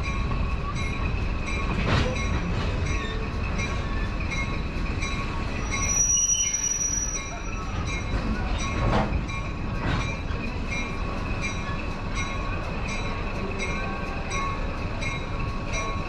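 Passenger coach of a heritage steam train rolling along the track: a steady low rumble with a constant high-pitched squeal and a few sharp clanks, the first about two seconds in and two more around nine and ten seconds.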